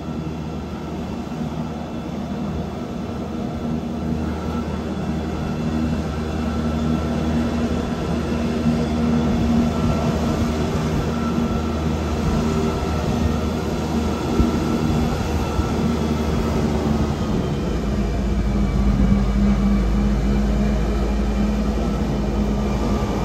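Wengernalpbahn rack-railway train running uphill, heard from inside the carriage: a steady hum of the electric motors and running gear over a rumble of wheels, with a deeper low rumble setting in about three-quarters of the way through.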